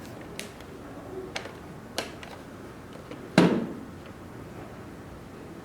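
A few light clicks and taps, then one louder knock a little past halfway, over a steady hiss: plastic parts of a Roomba robot vacuum being handled during a battery swap.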